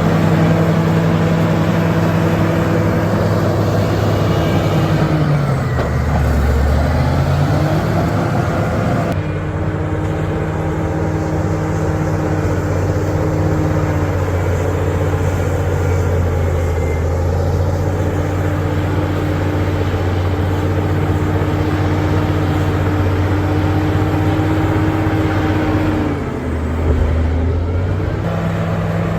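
Bulldozer's diesel engine running steadily, its pitch sagging and recovering twice.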